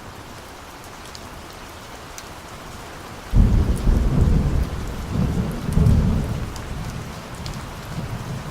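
Steady rain with a sudden rumble of thunder about a third of the way in. The rumble swells again a few seconds later, then fades back under the rain.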